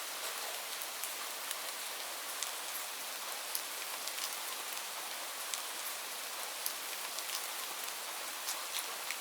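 Steady rain falling, a constant hiss with scattered sharp taps of individual drops landing close by.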